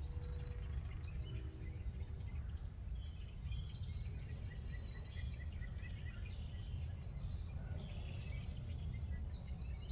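Outdoor ambience of small birds chirping and calling over a steady low rumble, with a quick run of repeated chirps in the first few seconds.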